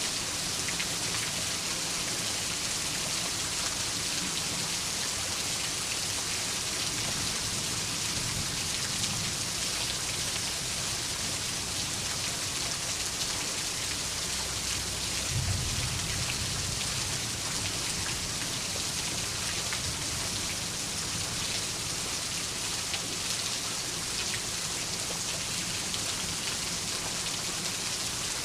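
Steady rain falling in an even hiss, with a low rumble of distant thunder that swells briefly about halfway through.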